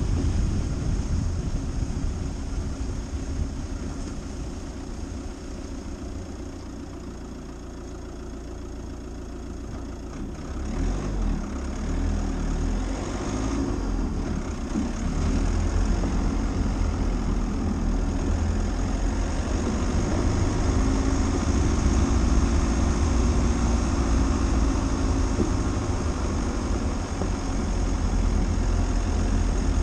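Dacia Duster's engine running with road rumble as the car drives off-road, dipping for a few seconds and growing louder again about eleven seconds in.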